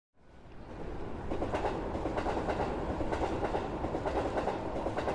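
Nishitetsu electric train running on the rails, a steady rumble with irregular wheel clicks over the track. It fades in at the start and begins fading out near the end.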